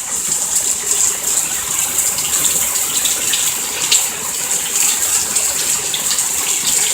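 Heavy rain pouring down steadily, a constant hiss of falling water with scattered small splash ticks.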